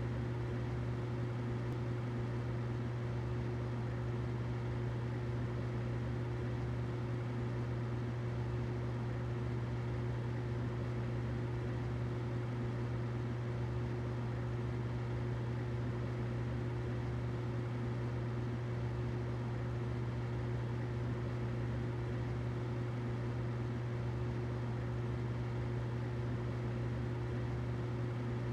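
Humidifier running steadily: a constant low hum with a fainter steady tone above it, over an even soft hiss.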